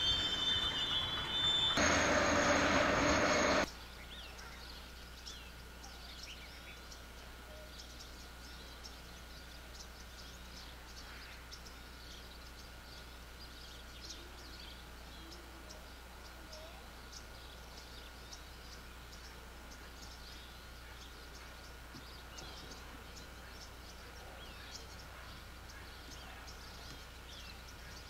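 Freight cars rolling past with a steady high wheel squeal, cut off suddenly about three and a half seconds in. Quiet open-country ambience follows, with many small bird chirps and a thin steady whine.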